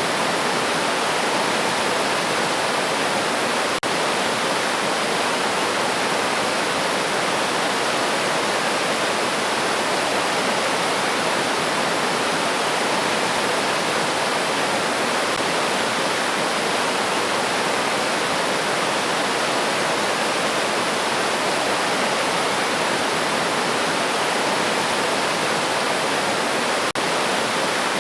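River water flowing in a steady, even rush. There are two momentary dropouts, one about four seconds in and one near the end.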